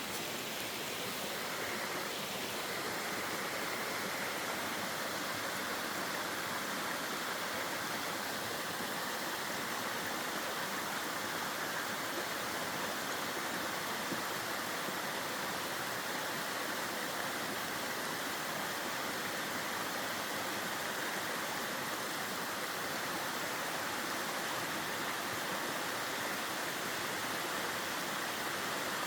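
Steady rush of a mountain valley stream flowing, an even unbroken wash of water noise that fills out a little about two seconds in.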